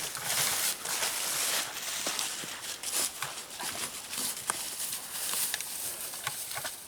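Footsteps through dry leaf litter and brush: a continual rustle of leaves with many small cracks and snaps of twigs underfoot.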